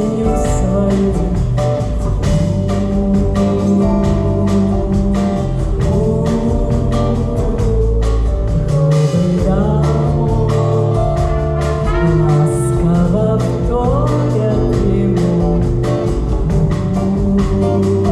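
Band music with singing over a steady beat.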